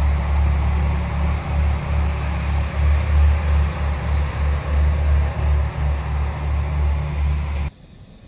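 TER Alsace regional train passing close by, a steady noisy rumble heavy in the low end. It cuts off suddenly near the end.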